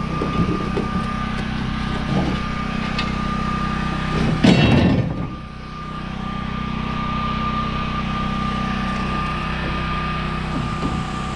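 Truck engine idling steadily, with one loud, short clatter about halfway through.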